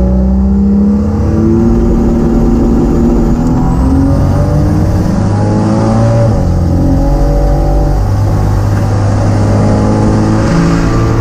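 Turbocharged Vortec 4200 inline-six at full throttle on a drag pass, heard from inside the car. Its pitch climbs through the gears and drops back at each shift. Near the end it surges at the top end, rising and falling unevenly instead of pulling steadily; the owner suspected the boost controller was giving unstable boost control.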